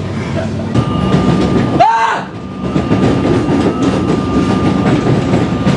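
A passenger train running, heard from inside the carriage as a steady rumble with a low hum. About two seconds in, a brief rising-then-falling tone cuts through and the noise dips for a moment.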